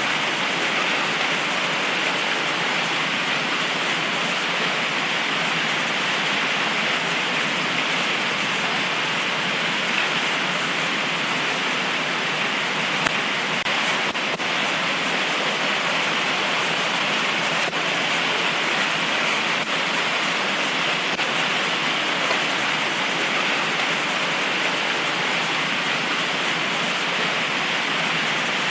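Heavy tropical rain pouring steadily, an even hiss of rain with no letup.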